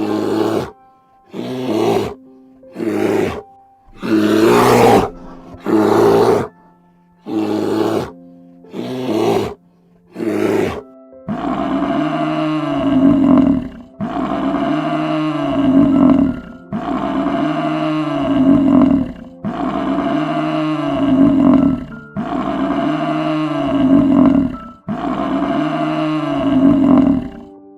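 Animal roaring calls over background music: about nine short calls in the first eleven seconds, then eight longer, evenly repeated calls about two seconds apart.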